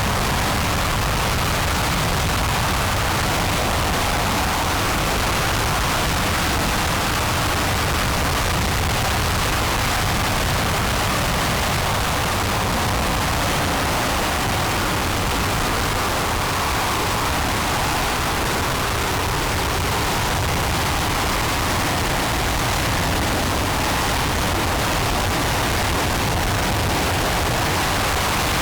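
RS-25 liquid-hydrogen/liquid-oxygen rocket engine firing during a ground hot-fire test: a loud, constant rush of noise with no change in level.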